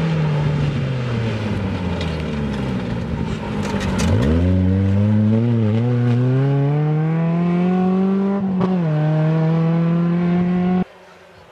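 Off-road rally SUV engine at full effort on a dirt stage. The engine note falls as the car comes up to and passes close by about four seconds in, then climbs steadily as it accelerates away uphill, with a short break in pitch around eight and a half seconds. The sound cuts off suddenly shortly before the end.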